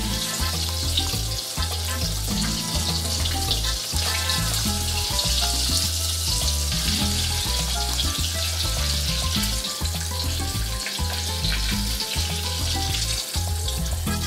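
Tuna croquettes sizzling steadily as they fry in hot oil in a small saucepan, under background music with a bass line.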